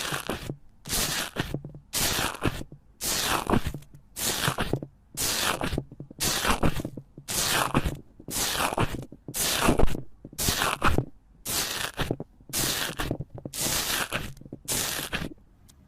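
Slime being squeezed and pressed by hand, giving a series of short crunching, crackling bursts, about one a second.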